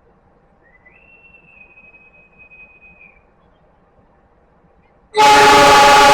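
A faint high whistle, gliding up and then held for about two seconds, then about five seconds in a train horn blasts loudly and steadily, a chord of several notes.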